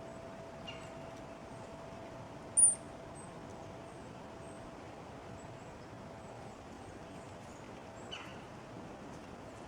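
Small songbirds calling: one short, sharp, very high-pitched chirp about two and a half seconds in, and a couple of fainter short calls near the start and near the end. These sit over a steady outdoor hiss and a faint steady hum.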